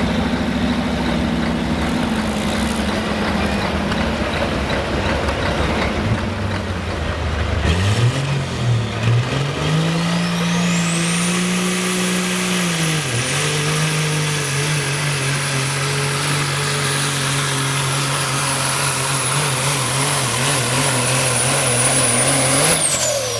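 Pulling semi truck's turbocharged diesel engine running at full load. A high turbo whine climbs and holds over the steady engine note, with a brief dip in the middle. Near the end the engine cuts back and the turbo whine falls away as it spools down.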